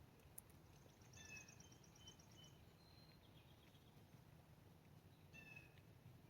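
Faint songbird calls over a low background rumble. A short call of several high notes comes about a second in and again about five seconds in, with a quick run of high ticks and a few thin whistled notes between them.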